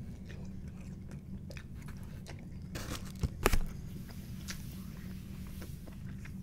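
Chewing a bite of pizza: soft, wet mouth clicks and crust crunching, with a few louder sharp crunches about three seconds in, over a steady low hum.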